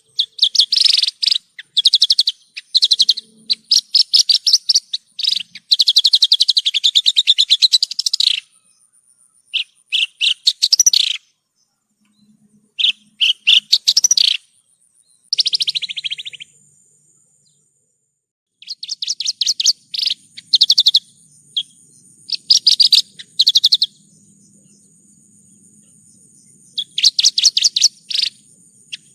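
Javan bush lark (branjangan) singing in fast, rattling phrases of rapidly repeated high notes, each phrase one to three seconds long, with short pauses between. A faint, steady high-pitched whine runs underneath, mostly in the second half.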